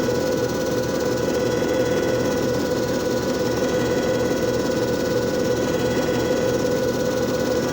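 JFJ Easy Pro disc repair machine running, its motor giving a steady, unchanging hum with a few faint steady whining tones above it.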